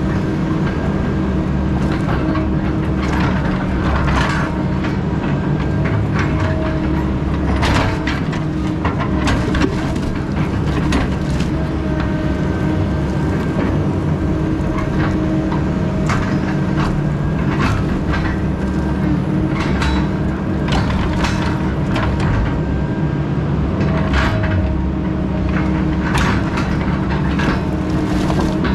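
Heavy logging machine's diesel engine running steadily under load, with repeated sharp cracks and knocks throughout.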